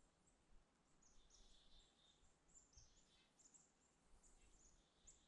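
Near silence, with faint, high-pitched chirps of small birds scattered throughout.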